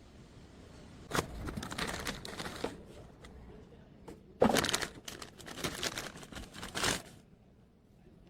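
Crinkling, rustling and clicking handling noises in two bursts, the second starting with a sharp knock about four and a half seconds in.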